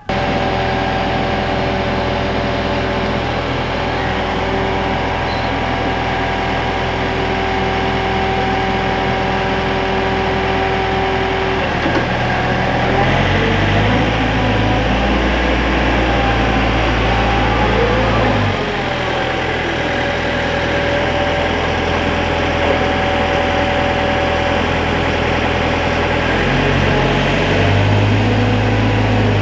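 Engine of construction machinery running steadily. It deepens and grows a little louder from about twelve to eighteen seconds in, and again near the end.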